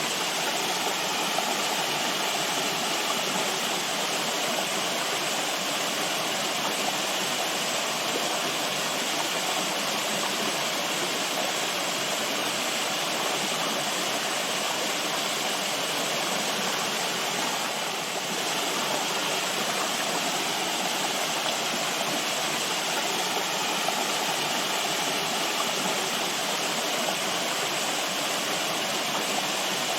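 Running water, a stream or small waterfall, rushing steadily and evenly with no breaks.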